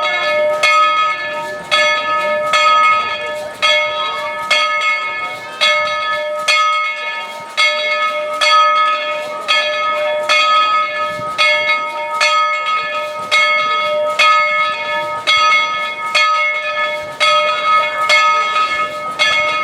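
Steam locomotive's bell ringing steadily as the train departs, with evenly spaced strokes, about two a second, each ringing on into the next.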